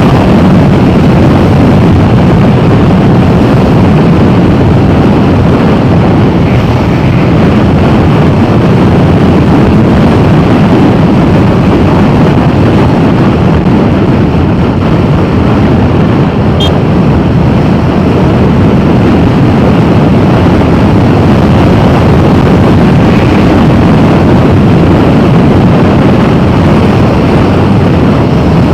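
Steady, loud wind rushing over the camera microphone of a motorcycle moving at speed, a low, even roar with no clear engine note standing out.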